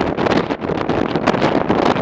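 Strong wind buffeting the microphone of a moving motorcycle: loud, rough, fluttering rush of noise with no clear engine note.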